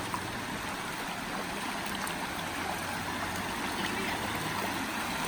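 Creek water running steadily, an even rushing hiss that grows slightly louder toward the end.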